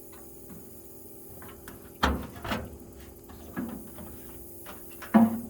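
Toolbox drawers and tools being handled: a few sharp knocks and clatters, the loudest about two seconds in and again near the end, over a low steady hum.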